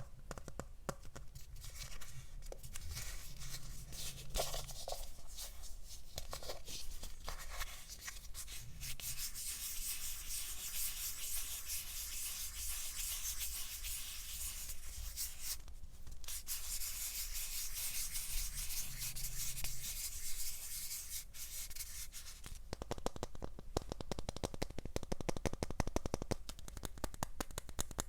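Close-miked rubbing and scratching on a surface, going on without pause, briefly dropping away just before the middle and turning into a denser crackling near the end.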